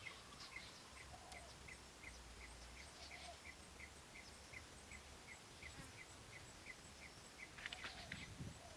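Faint outdoor ambience: a short chirp repeating evenly about three times a second, from a bird or insect, with a brief cluster of clicks near the end.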